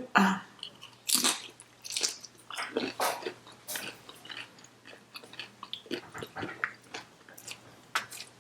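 A person chewing a big mouthful of Chipotle burrito bowl, with irregular smacking and crunching mouth sounds several times a second.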